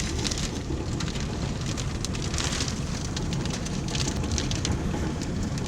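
Steady low rumble of storm wind on the microphone, with many small ticks of rain striking nearby.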